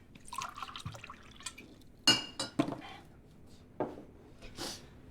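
A few sharp clinks and knocks, like glass or crockery being handled, the loudest about two seconds in with a brief ring.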